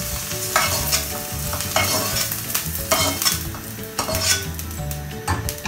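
Hot oil sizzling in a frying pan while a perforated steel skimmer scrapes and clicks against the pan, clearing out the last of the lightly fried okra.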